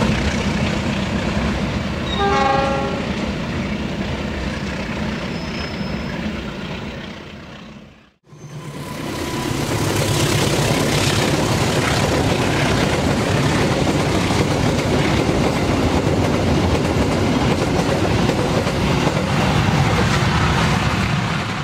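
GE CM20EMP (CC206) diesel-electric locomotive hauling empty flat cars. A short horn blast sounds about two seconds in over the noise of the approaching train. After a break, the locomotive and flat cars pass close by in a loud, steady rush of engine and wheel noise.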